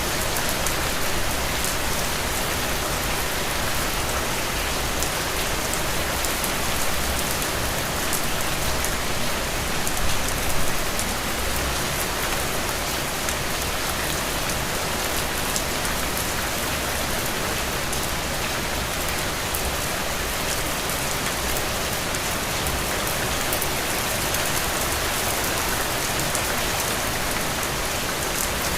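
Steady rain falling, an even hiss with many fine drop ticks, briefly a little louder about ten seconds in.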